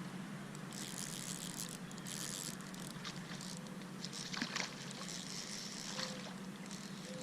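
Faint, intermittent splashing and rustling, with a few small clicks, as a hooked bluegill is played and brought in to a kayak.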